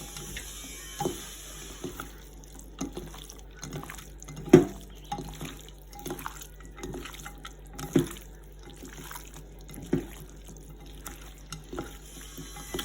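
Kitchen water sounds, running and dripping as at a sink, with scattered sharp knocks of kitchenware, the loudest about four and a half seconds in.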